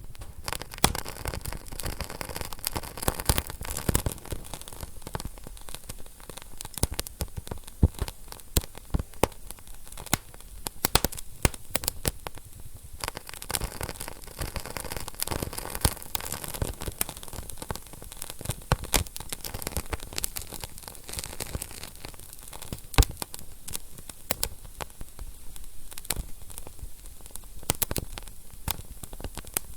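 Wood fire burning in a fireplace, crackling and popping irregularly over a steady hiss of flames.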